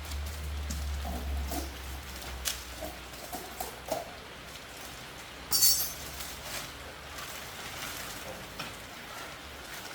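Light metallic clinks and knocks of things being handled, with a low rumble in the first two seconds and one brief high hiss a little past halfway, the loudest sound.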